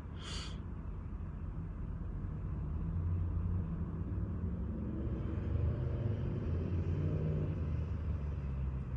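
Low motor-vehicle engine rumble that swells for a few seconds in the middle and then eases, after a brief hiss at the start.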